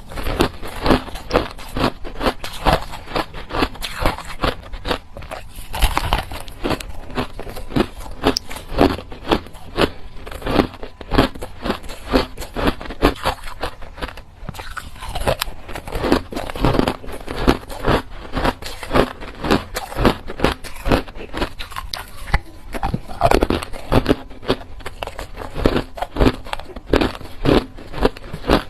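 Ice being bitten and chewed close to the microphone: a continuous run of sharp, crunchy cracks as small hard pieces break between the teeth.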